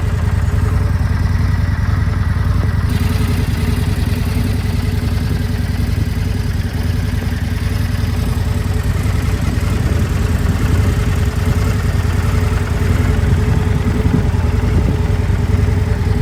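2025 Indian Scout Bobber Limited's V-twin engine idling steadily, with no revving.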